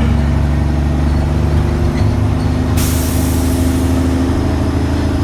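Dump truck's diesel engine running steadily, heard from inside the cab. A little under three seconds in comes a sudden hiss of air from the truck's air brakes, fading over a second or so.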